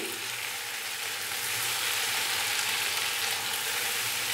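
Potato slices, onions and chopped tomatoes frying in oil in a kadai while being stirred with a spatula: a steady sizzling hiss.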